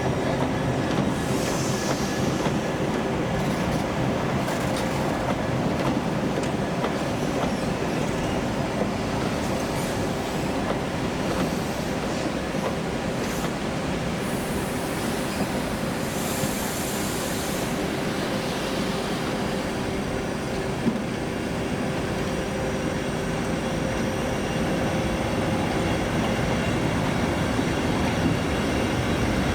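A locomotive-hauled train rolling past at speed: a steady rumble of wheels on rail with a clickety-clack beat, and brief high-pitched wheel squeals about two seconds in and again around the middle.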